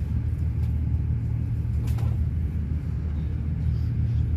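Steady low rumble of an intercity passenger train running along the line, heard from inside the coach, with a brief click about two seconds in.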